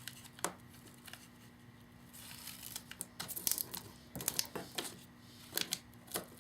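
Cellophane treat bag filled with gumballs crinkling and rustling as it is handled, with scattered small sharp clicks and taps.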